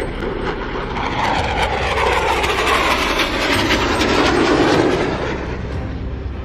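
Jet aircraft flying past: a rushing jet noise that swells about a second in, is loudest around four to five seconds in, and fades near the end.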